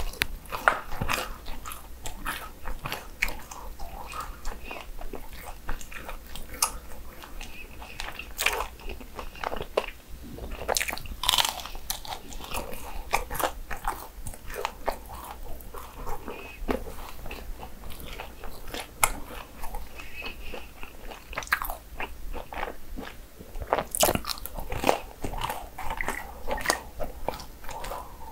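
Close-miked biting and chewing of fried churros: a steady run of sharp, crisp crunches, with a few louder bites in the middle and near the end.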